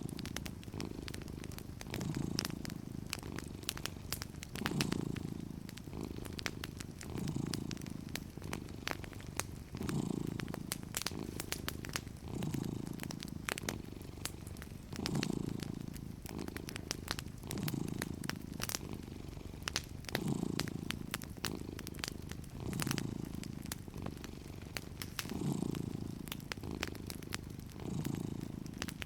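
A cat purring steadily, the purr swelling about every two and a half seconds with each breath, over a wood fire crackling with frequent small sharp pops.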